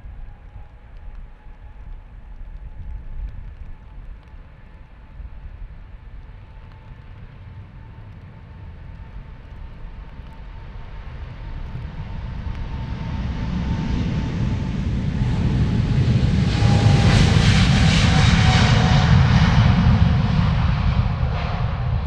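Jet airliner's engines passing close, a whine that slides slightly down in pitch over a rumbling roar that swells to its loudest a few seconds before the end.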